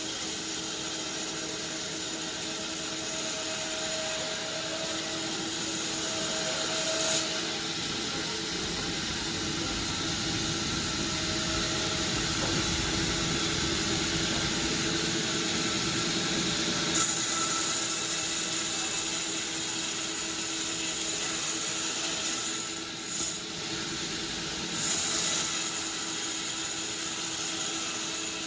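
Sawmill saw running steadily with a high whine, sawing through wood. The whine drops away about a quarter of the way in and comes back louder a little after halfway, with a brief dip near the end as the cut changes.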